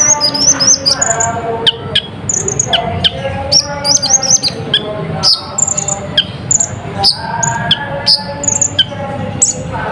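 Konin (kolibri ninja) sunbird singing a fast, continuous medley of sharp high chirps and quick sweeping notes, with lower warbled phrases, full of calls borrowed from other birds.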